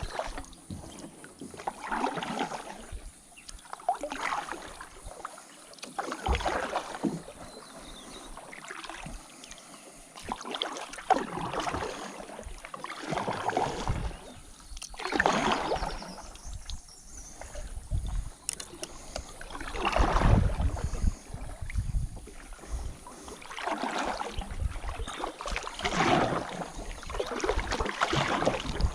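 Kayak paddle strokes: the blades dipping and pulling through the water with a splash and swish about every two seconds.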